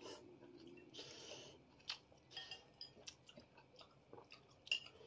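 Faint chewing of beef meatballs and noodles, with a few light clicks of chopsticks against the bowl, the sharpest near the end.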